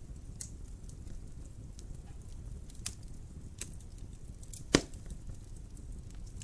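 Wood fire burning in a fireplace: a steady low rumble with scattered sharp crackles, and one loud pop a little less than five seconds in.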